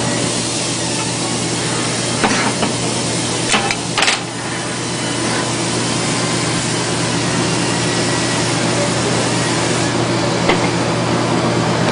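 TIG welding arc running with a steady hiss over a low electrical hum, with a few short clicks around 2 to 4 seconds in and once more near the end.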